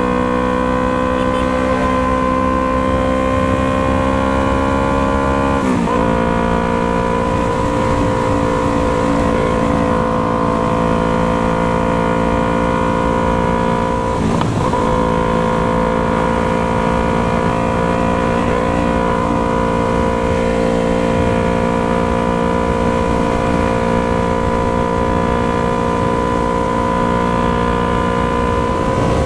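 Yamaha MT-03 parallel-twin engine running through a Jeskap aftermarket exhaust, ridden under steady throttle with its pitch slowly climbing. Two brief breaks in the note, about six seconds in and again near the middle, sound like gear changes.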